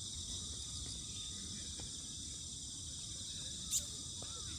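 Crickets and other insects trilling in a steady chorus, with one short high chirp a little before the end.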